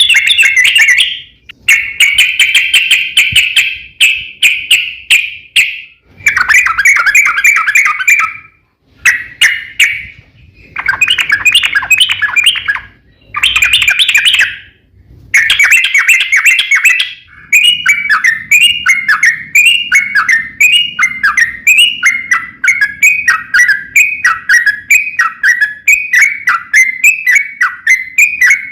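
Yellow-vented bulbul (trucuk) singing loudly. It gives rapid, bubbly chattering phrases of a second or two each with short pauses between them, and after about 17 seconds settles into a steady run of short down-slurred notes, a little over one a second.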